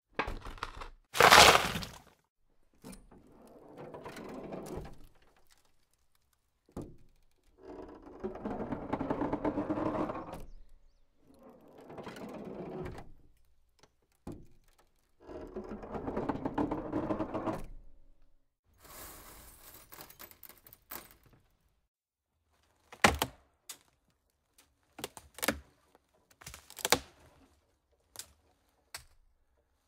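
A series of separate knocks and scrapes: one sharp loud hit about a second in, then four longer rumbling, scraping passes of a second or two each, then a few short, sharp knocks near the end.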